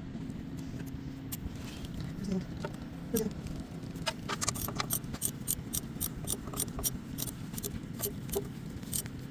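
Sharp metallic clicks and taps from hand tools and small parts being handled during engine work, coming several a second from about four seconds in, over a steady low hum.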